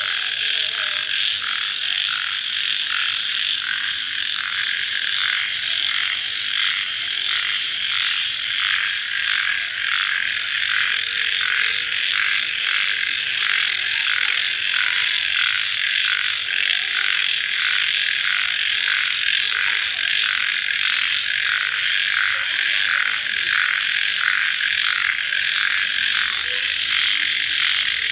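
A dense chorus of crickets chirping, a steady high-pitched trill that pulses evenly about one and a half times a second.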